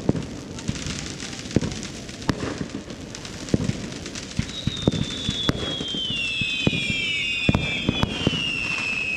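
Fireworks going off: irregular sharp pops and bangs throughout. From about halfway in, several whistling fireworks join in, their high whistles overlapping and slowly falling in pitch.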